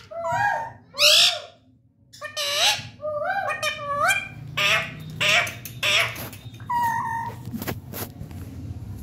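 Indian ringneck parakeet giving a string of short, rising squawks and chattering calls, with a brief pause about two seconds in.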